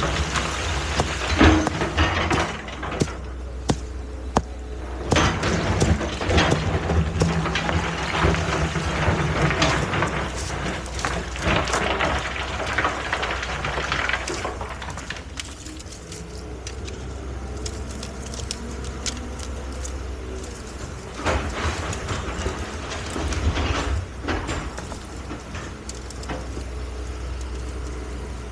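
Excavator's engine running steadily, with frequent sharp knocks and cracking noises over it, busiest in the first half and thinning out about halfway through.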